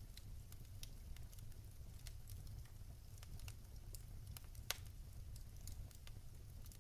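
Fireplace fire crackling: irregular small pops and snaps, with one louder pop about two-thirds of the way through, over a low steady rumble.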